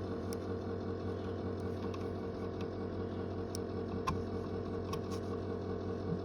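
School bus engine idling steadily, with a few faint light clicks over it.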